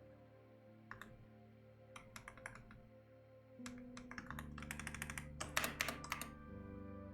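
Typing on a computer keyboard: a few scattered keystrokes, then a fast run of typing through the middle, over soft background music.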